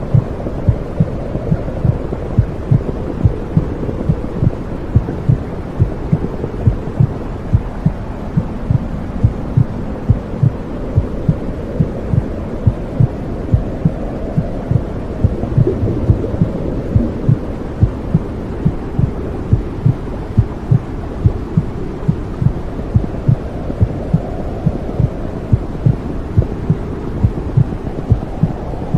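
Womb sound: a steady, even heartbeat thumping about twice a second over a continuous low rumbling noise that slowly swells and fades.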